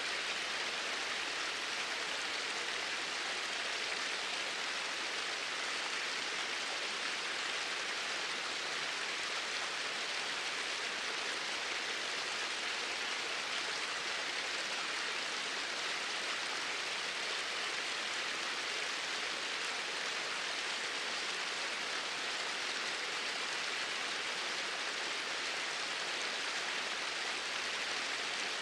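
Flowing water: a steady, even rush with no changes.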